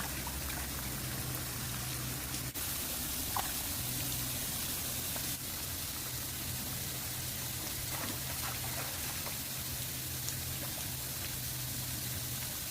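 Steady rush of running water, with a few faint drips or splashes.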